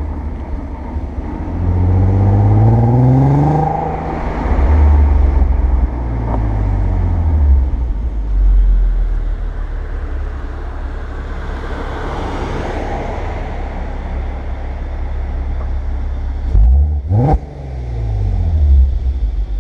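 Audi A3 8P 3.2 quattro's VR6 engine through its stock exhaust, revved up and falling back to idle twice. The first rev climbs over about two seconds and winds down slowly. The second, near the end, is a quicker, sharper blip.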